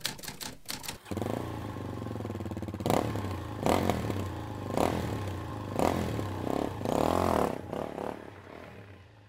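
Rapid typewriter-style clicks for about the first second, then a motorcycle engine comes in running and is revved in about five sharp blips, fading away near the end.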